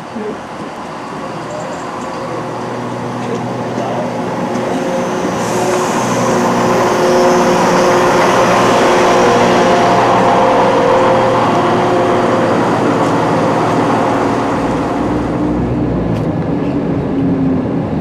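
Passenger train running, heard from on board: steady machinery tones over a rushing wheel and rail noise, building up over the first several seconds and then holding.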